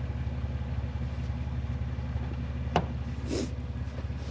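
Vehicle engine idling steadily, with a sharp click a little under three seconds in and a short hiss just after.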